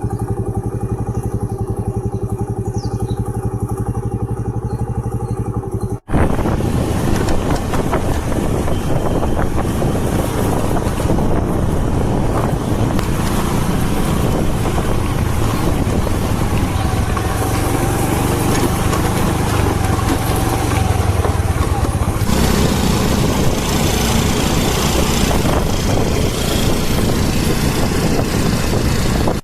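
A motor vehicle's engine running with a steady tone. About six seconds in the sound cuts out briefly and gives way to a louder rush of engine rumble and wind noise, as of the vehicle on the move.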